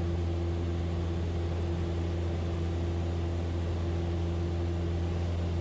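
Piper Cherokee's piston engine and propeller droning steadily inside the cabin in the climb just after takeoff, a low, even hum that holds the same pitch throughout.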